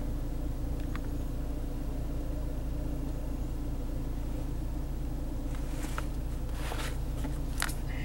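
2013 Ford Escape engine idling, heard inside the cabin as a steady low hum, with a few light clicks in the second half.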